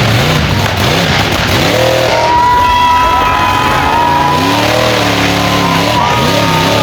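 Monster truck engine revving hard in repeated throttle blips, its pitch rising and falling again and again.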